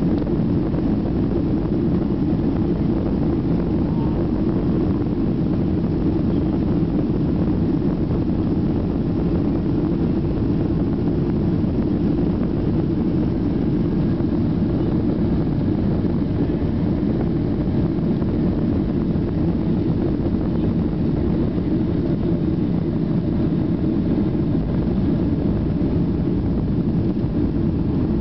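Steady cabin noise inside a Boeing 737-800 on takeoff: its CFM56 jet engines and the rushing air make a low, even drone that holds unchanged throughout.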